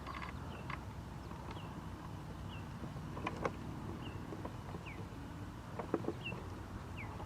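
A bird chirping: short high notes about once a second, over a steady low rumble, with a few sharp clicks.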